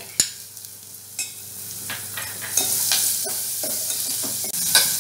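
Chopped carrot frying in hot oil in a steel pan, stirred with a steel ladle that clinks and scrapes against the metal. A sharp clink comes just after the start, and the sizzle grows louder about two and a half seconds in as the ladle works through the pan.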